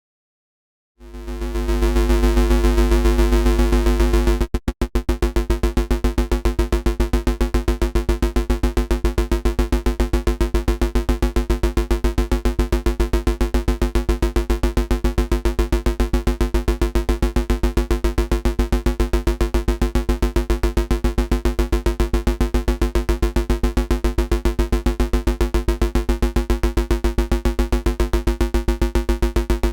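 FM synth bass patch built in Bitwig's Polygrid, starting about a second in as a loud sustained low note with a buzzy stack of overtones. After a brief dropout a few seconds in, it pulses rapidly and evenly, and its upper overtones shift near the end.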